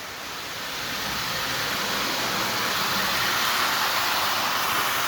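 Lionel 259E tinplate steam locomotive and freight train running on the track, a steady whirring rumble of motor and wheels that builds as the train picks up speed over the first couple of seconds, then holds steady.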